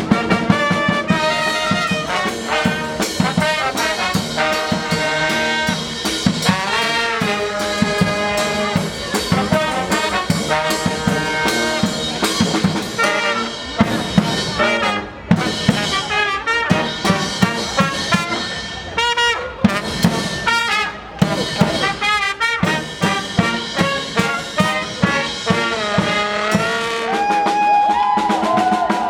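Band music led by brass, trumpets and trombones, over a drum kit keeping a steady beat.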